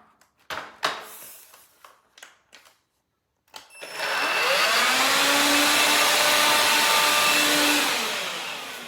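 A few handling clicks, then the Electrolux Ergorapido cordless stick vacuum's motor switches on about three and a half seconds in and spins up with a rising whine to a loud, steady run. Near the end it winds down with a falling whine and stops on its own, a sign of the battery giving out after a very short run.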